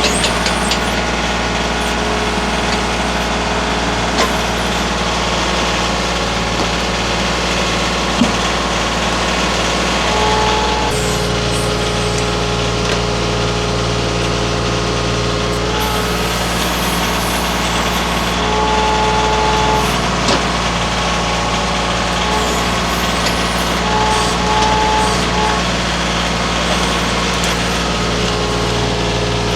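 Baumalight mini skid steer engine running steadily, with a higher whine that comes and goes.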